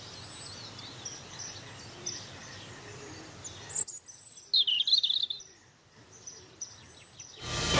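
Birds chirping and calling over a steady outdoor background noise. About four seconds in the background changes abruptly, and a louder quick run of bird calls follows a second later. Music starts just at the end.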